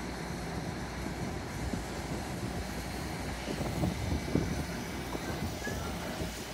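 Metro-North commuter train cars rolling slowly past, a steady low rumble of wheels on the rails, with a few louder clunks near the middle.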